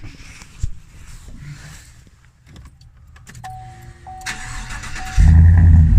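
An electronic chime beeps repeatedly, there is a short burst of starter cranking, and about five seconds in the 2018 Chevrolet Silverado's 5.3 L V8 fires and settles into a loud, deep idle through JBA shorty headers and a Flowmaster Outlaw cat-back exhaust. Heard from inside the cab.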